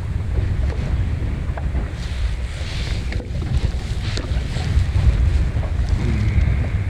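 Strong wind buffeting the microphone in a small boat on choppy harbour water, a gusting low rumble, with light splashes and ticks of water against the hull.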